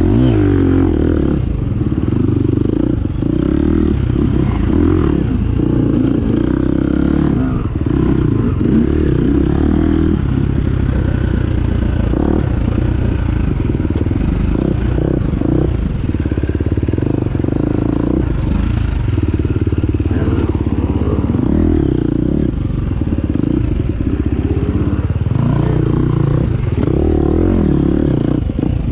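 Two-stroke Yamaha YZ250 dirt bike engine revving up and down repeatedly while riding, with rattles and knocks from the bike over rough ground.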